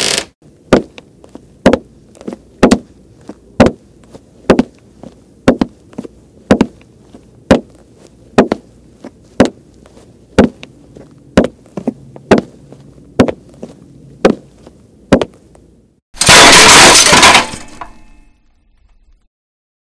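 A steady series of sharp knocks, about one a second, with faint clicks between, then a loud crash of dishes breaking that rings out and dies away.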